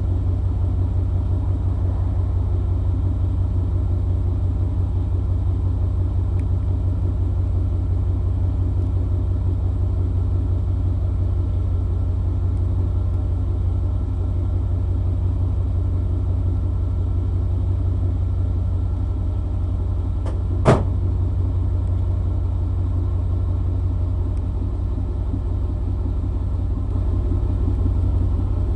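1995 Chevy C-2500's 350 small-block V8 with throttle-body injection idling steadily, heard at the tailpipe as an even, low exhaust rumble. A single sharp click about two-thirds of the way through.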